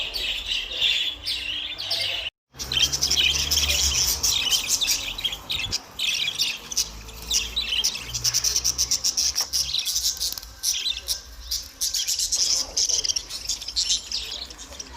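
Finch singing a long, fast twittering song, broken by a brief silent gap about two seconds in, over a low hum.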